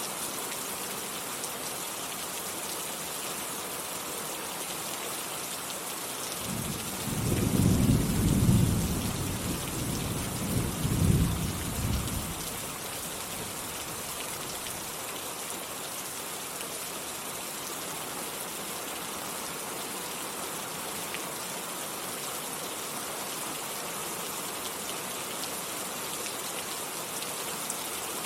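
Steady heavy rainfall with a roll of thunder about seven seconds in, rumbling for around five seconds with two loud peaks before fading back under the rain.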